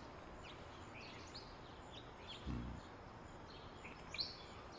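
Faint small-bird chirps, scattered short high calls over a steady low hiss, with one soft low thump about two and a half seconds in.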